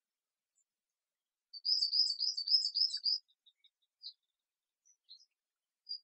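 A songbird singing a quick, high twittering phrase lasting about a second and a half, starting about a second and a half in. A few single high chirps follow.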